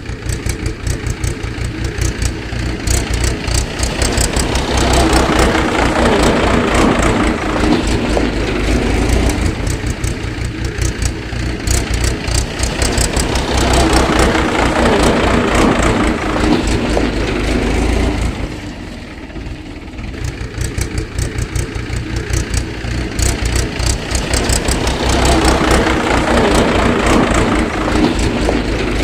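Tractor engine running with a fast, even chugging that eases off briefly about two-thirds of the way through, then picks up again.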